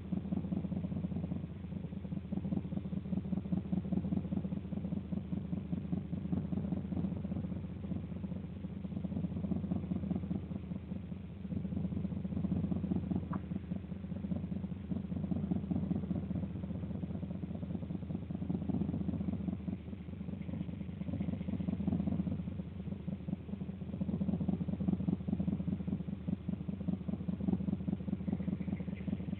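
An engine idling steadily: a low, even rumble with a fast pulse, swelling and easing slightly in level.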